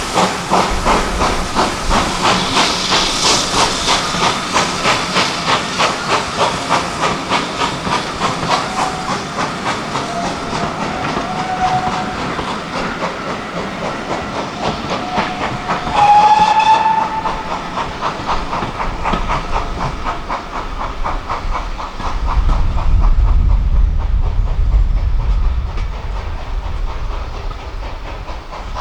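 GWR Manor class 4-6-0 steam locomotive No.7802 Bradley Manor working a train, with quick, even exhaust beats over hissing steam. It gives one short whistle blast about sixteen seconds in, and the beats fade away after it. A low rumble follows near the end.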